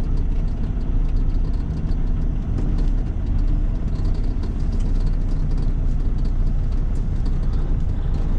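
Caterpillar 3406E inline-six diesel engine of a Freightliner FLD120 semi truck running steadily, heard from inside the cab as a low rumble.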